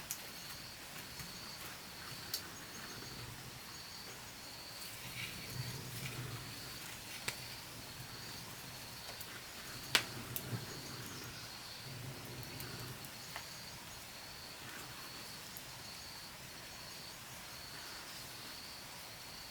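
An insect chirping in a steady pulsing rhythm, about two pulses a second, with a few sharp knocks scattered through, the loudest about ten seconds in.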